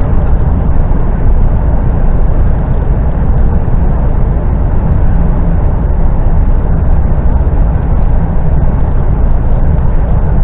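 Steady engine and road noise inside the cab of an articulated lorry on the move, a constant low rumble with no distinct events.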